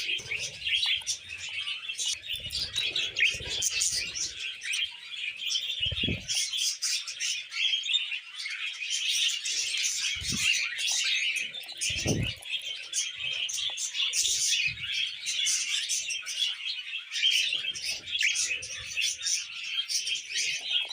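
A pair of budgerigars singing: continuous fast chattering warble and chirps. A few soft low thumps are heard now and then.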